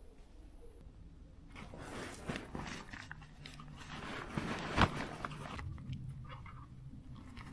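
Close crunching and crackling rustle for about four seconds, made of many small clicks, with one sharp click near the end.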